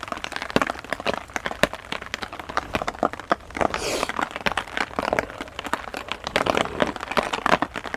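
Heavy rain, with many drops striking close by as a dense, irregular patter of sharp taps. About four seconds in there is a brief hissing swell.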